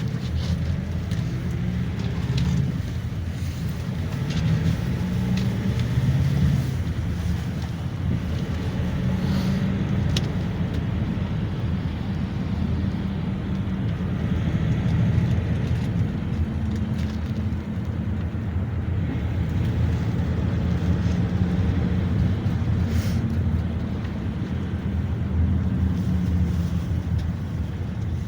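GAZ Next minibus heard from inside the passenger cabin while driving: a steady low engine and road rumble that rises and falls a little, with a few light rattles.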